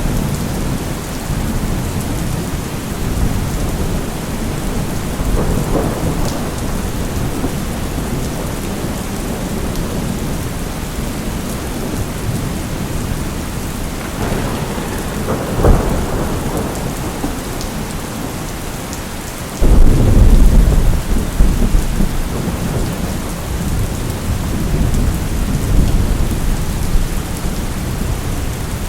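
Steady rain with rumbling thunder. A sharp thunderclap comes about halfway through, and a few seconds later a loud, deep roll of thunder breaks in suddenly and rumbles on for several seconds.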